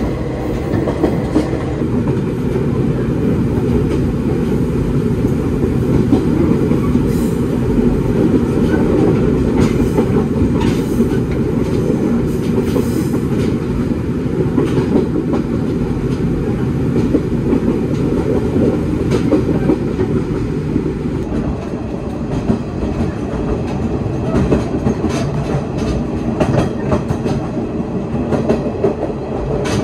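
Diesel railcar train running along the line, heard from an open-window trolley car: a steady rumble of wheels and running gear with the clickety-clack of wheels passing over rail joints.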